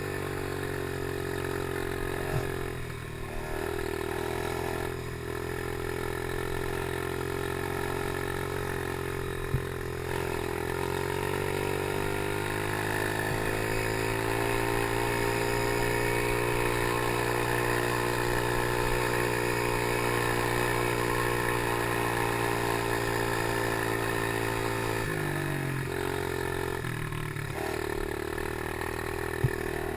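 Small PY90 motocross bike engine running under way, its pitch dropping and climbing again several times as the throttle is eased and opened, with a few sharp knocks.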